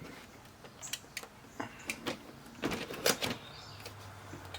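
Scattered clicks and knocks of TV parts being handled during reassembly, with a cluster of louder knocks about three seconds in.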